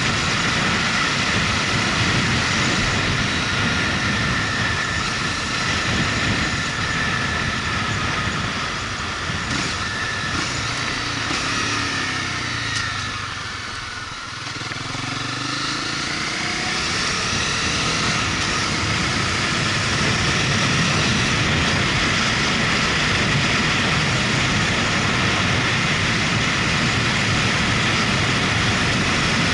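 Motorcycle engine running with wind rush while riding. About halfway through, the revs fall away and the sound eases off as the bike slows, then the revs climb again as it speeds back up.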